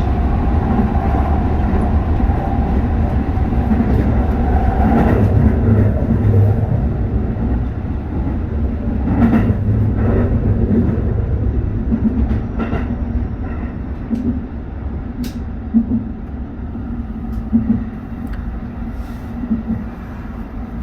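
Tsukuba Express electric train braking into a station: its motor whine falls in pitch over the first few seconds, then the rumble grows quieter as it slows, with a few clicks and knocks of wheels over the rails.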